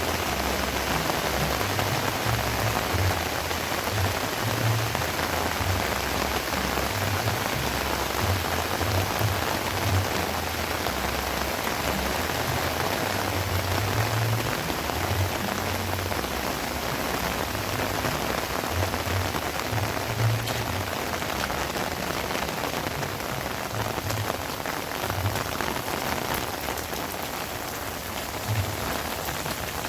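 Heavy rain pouring down steadily in a dense, even hiss, with irregular low rumbles underneath.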